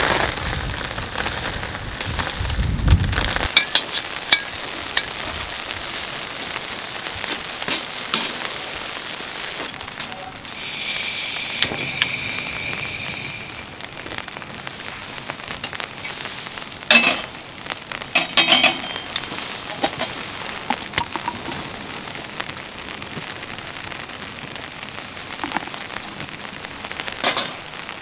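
Steady rain falling on a tent, with low wind rumble on the microphone that stops abruptly a few seconds in. Scattered clicks and knocks of things being handled, a few louder ones past the middle.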